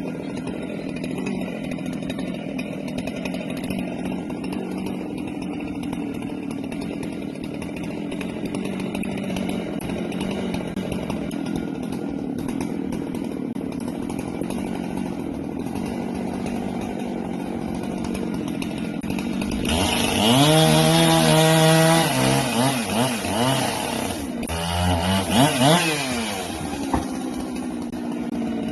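Husqvarna 390XP two-stroke chainsaw running steadily at low speed. About two-thirds of the way through it is revved hard several times, its pitch rising and falling, before it settles back to the lower steady drone.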